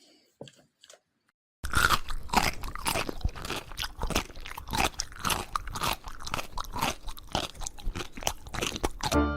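Close, rapid crunching, like chewing on something hard and crunchy. It starts suddenly about one and a half seconds in and goes on in quick, irregular crunches, stopping just before the end.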